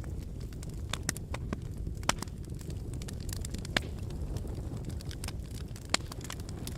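Wood fire burning in a fireplace: a steady low rumble with scattered crackles and sharp pops, a few of them louder than the rest.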